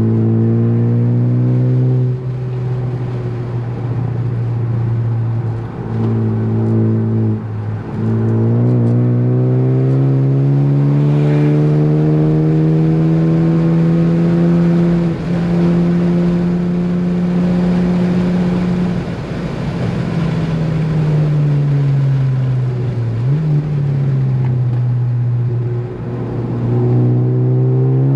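Ford Focus ST's turbocharged engine under hard track driving: it holds high revs, drops in pitch around 2 s and again near 8 s, climbs steadily to about 19 s, then falls as the driver lifts off. A quick rev blip comes near 23 s, and the engine pulls up in pitch again near the end.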